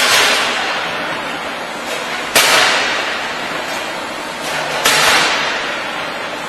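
Regular bursts of hiss from a machine cycling on an industrial food line, one about every two and a half seconds, each starting sharply and fading away over a second or two.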